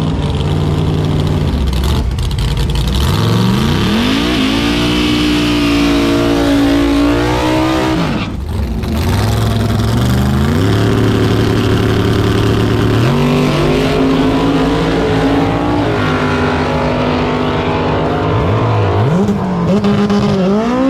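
Drag-racing car engine revving hard, its pitch climbing, breaking off sharply about eight seconds in, then rising again in several steps.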